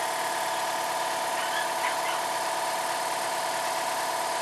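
Electric air compressor running steadily with an even motor-and-pump hum.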